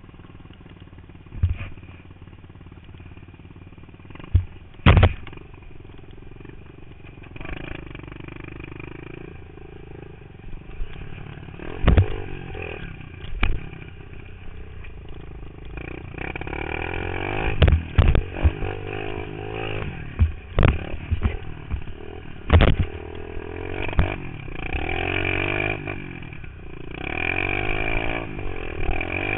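Pit bike engine heard from a helmet-mounted camera, running at low throttle for the first few seconds, then revving up and down repeatedly through the second half as the bike is ridden around the dirt track. Several sharp thumps break through the engine sound.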